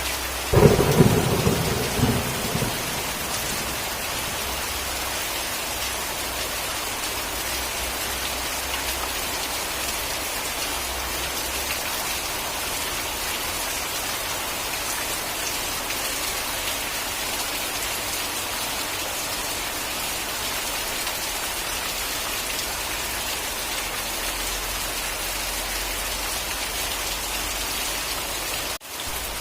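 Steady rain falling, with a single clap of thunder about half a second in that rumbles on for about two seconds. The rain cuts out for an instant near the end.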